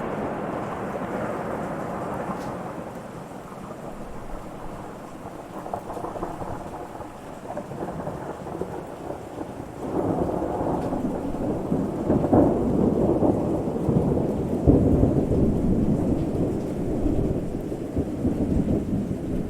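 Thunderstorm: rolling thunder rumbling over steady rain. One rumble dies away over the first few seconds, and a louder roll builds about halfway through, peaking a few seconds later before fading.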